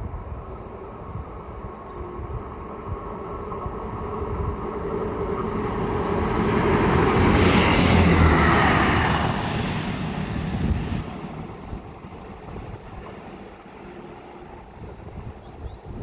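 A train passing through, building up, loudest about eight seconds in, then fading away, its tones falling in pitch as it goes by. Wind buffets the microphone throughout.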